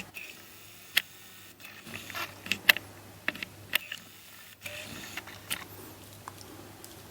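Small keychain-size 2x2 twisty puzzle cubes, ten joined in a chain, being turned by hand: a handful of sharp plastic clicks and clacks at irregular intervals.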